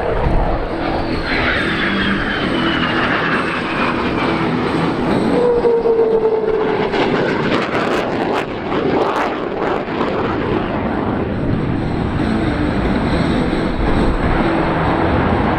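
Loud jet noise from an F-22 Raptor's two F119 turbofan engines as it flies past in an airshow display. Whining tones in the noise fall in pitch as the jet passes, twice in the first half.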